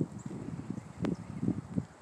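Footsteps walking on the woodland floor, about two steps a second, with a sharp click about a second in.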